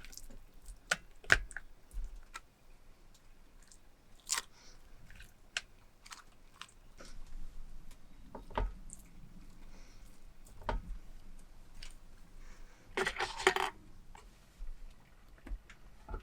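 Scattered small clicks, taps and rustles of objects being handled at close range in a small room, with a denser rustling burst a little after the middle.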